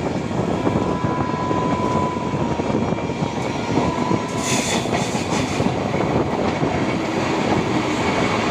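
Shatabdi Express passenger train running at speed: a steady rumble of the coach and wheels on the rails. A brief hiss rises over it about halfway through.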